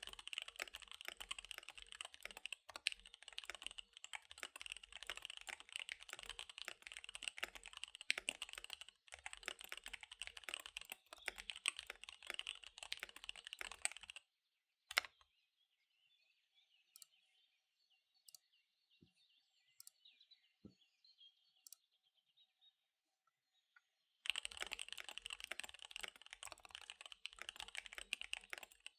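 Fast typing on a KBD75 V3 mechanical keyboard with SP-Star Dark Magic Girl tactile switches and DSA keycaps, a dense run of key clicks. About halfway through the typing stops for about ten seconds, leaving faint bird chirping and a few single key clicks, then picks up again near the end.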